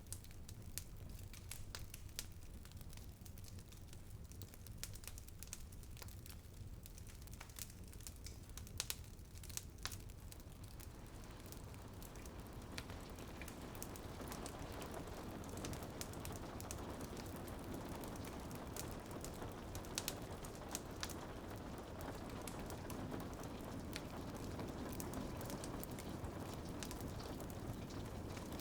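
Wood fire crackling with scattered sharp pops, over rain on a window. The rain grows heavier and fuller about halfway through.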